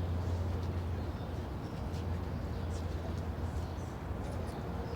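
Outdoor city ambience: a steady low rumble, with faint voices and a few light clicks in the background.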